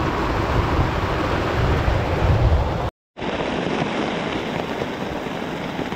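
Heavy rain falling on a tent, with a low rumble under it in the first half. The sound cuts out completely for a moment about halfway, then the rain carries on, steadier and without the rumble.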